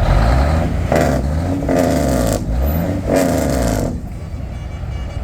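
Heavy truck diesel engines revving as parade trucks drive past, in several rising and falling bursts that drop off about four seconds in.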